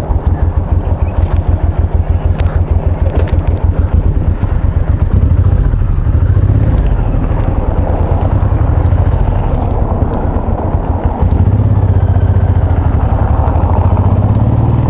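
Honda VTX1800's big V-twin engine running on the move, with a rapid, even pulsing beat for the first few seconds that smooths into a steadier sound. The sound drops briefly about eleven seconds in, then picks up again.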